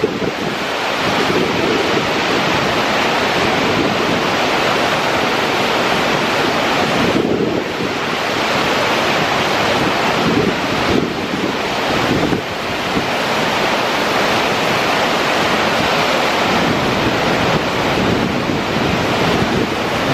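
Dettifoss, a very large waterfall on a glacial meltwater river, giving a loud, steady rush of falling water, with wind on the microphone.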